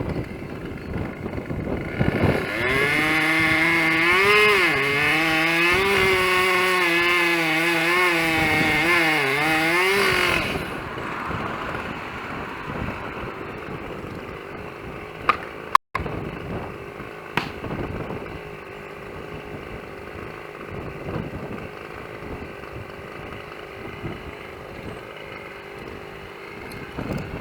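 Chainsaw cutting wood, its engine pitch wavering up and down with the load. About ten seconds in it drops back to a steady idle.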